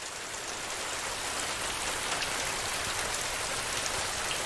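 Heavy rain pattering on a tin roof: a dense, steady hiss of drops with fine ticks, swelling up over the first second and then holding even.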